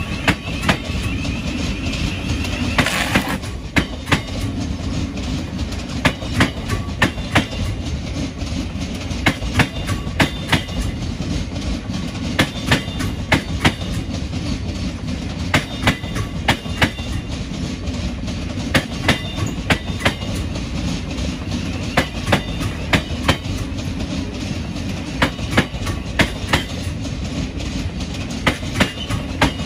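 A Thameslink Class 700 electric multiple unit running slowly past, a steady low rumble with its wheels clicking in quick pairs over rail joints and points. A brief hiss sounds about three seconds in.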